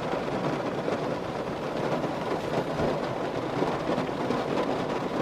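Heavy rain pouring steadily, a dense even patter of drops drumming on a car roof.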